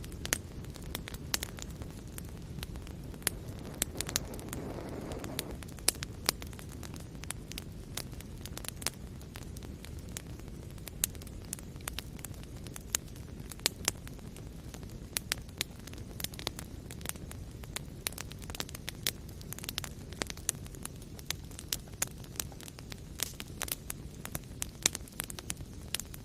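Wood fire burning in a fireplace: a low steady rumble of flames with irregular sharp crackles and pops from the burning logs, and a brief hiss about five seconds in.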